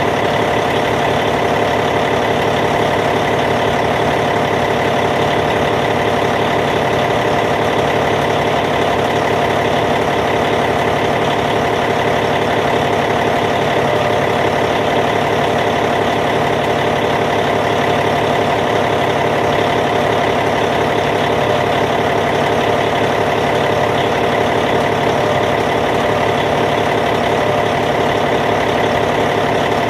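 Caterpillar C15 inline-six diesel engine of a D8T bulldozer idling, steady and unchanging.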